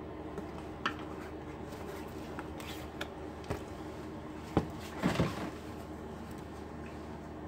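A few scattered light clicks and knocks from laptop parts and tools being handled on the bench, with a cluster of them about five seconds in, over a steady low hum.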